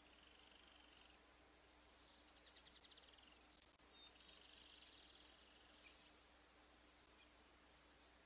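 Faint recording of a steady, high-pitched insect chorus, typical of crickets, with a few faint bursts of rapid, chattering calls from blue-winged parrotlets in the first half.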